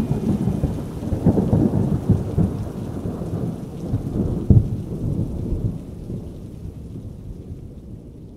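Rolling thunder with rain, a long low rumble that fades away over the last few seconds.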